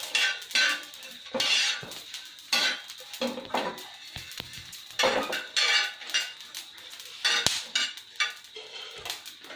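Metal kitchen utensils clattering and scraping against pots or dishes in irregular strokes, with a few sharp clinks.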